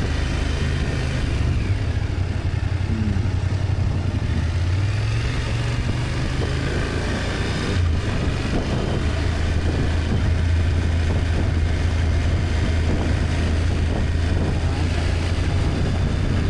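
BMW F800GS parallel-twin engine running steadily on a ride, under a steady rush of wind noise. The engine note breaks briefly and changes pitch about halfway through.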